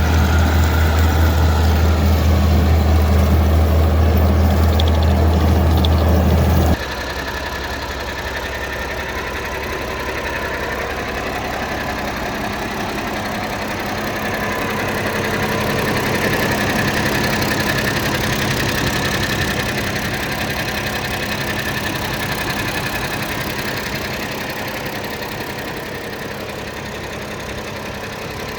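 Massey Ferguson 1130's Perkins 5.8 L six-cylinder diesel engine idling steadily. For the first seven seconds it is a loud, deep, steady hum; then it drops abruptly and runs on quieter, swelling a little toward the middle and easing off again.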